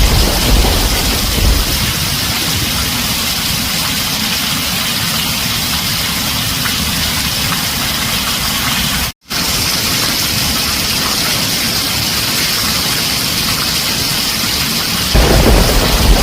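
Heavy rain on a tin roof, a dense steady hiss. A deep thunder rumble fades in the first second or two and comes back near the end. The sound cuts out for an instant about nine seconds in.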